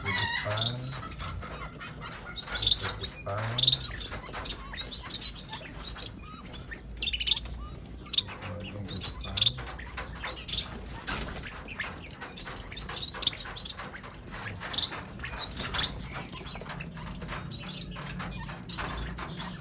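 A flock of finches in an aviary chirping and tweeting, with many short, high notes overlapping throughout.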